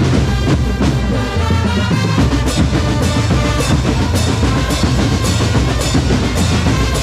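Marching drum corps playing: bass and snare drums keep a steady beat while held melodic notes carry a tune over it.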